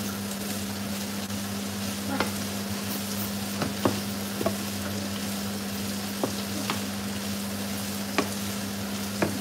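Diced courgettes sizzling as they fry in a frying pan, stirred with a wooden spatula that knocks against the pan several times. A steady low hum runs underneath.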